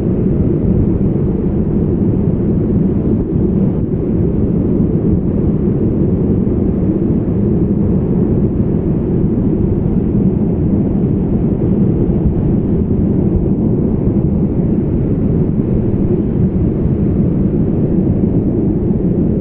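Baner Khad river in flood, its fast water rushing past in a steady, loud, low rumble.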